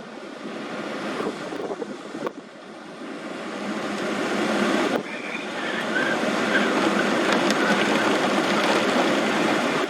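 Strong thunderstorm inflow wind rushing in a steady, dense roar that builds and is loudest from about halfway through.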